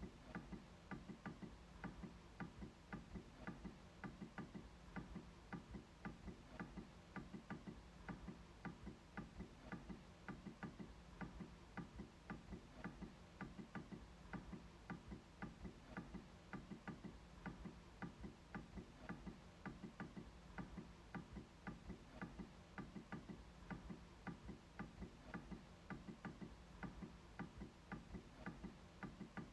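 MacBook trackpad being clicked over and over: faint, fairly regular clicks, a few a second.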